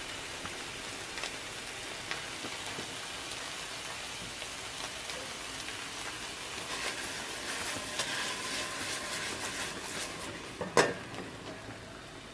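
Pangasius fillet and onions sizzling in a non-stick frying pan with teriyaki sauce, a steady crackling hiss that grows louder for a few seconds past the middle. One sharp knock near the end is the loudest sound.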